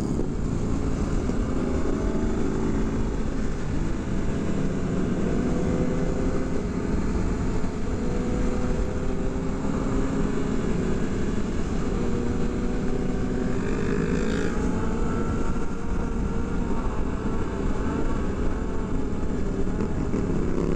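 Several motorcycle engines running and revving as a group rides together, their pitches rising and falling over one another above a steady rushing noise.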